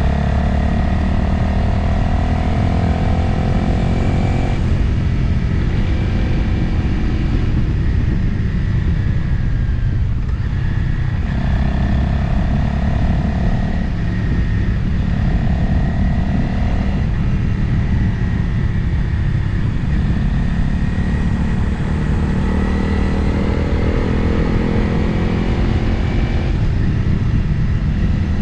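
Motorcycle engine running under way, its pitch climbing slowly in several stretches and dropping back between them, with wind rushing over the microphone.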